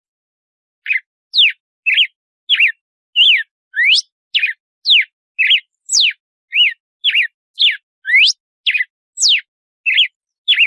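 Red-cowled cardinal (galo-de-campina) singing its 'açoite' song: a fast series of clear whistled notes, about two a second, each sweeping sharply up or down in pitch, starting about a second in.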